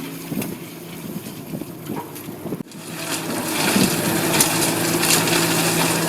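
A heavy machine's engine running under rattling and crunching of material, which gets louder after an abrupt cut about two and a half seconds in.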